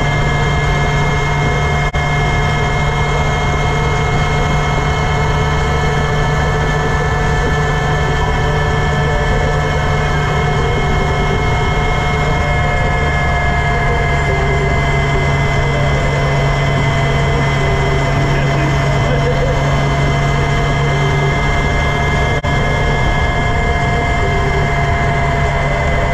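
Campagna T-Rex engine running at a steady cruise, a constant drone with held tones, under road and wind noise heard from its open cockpit.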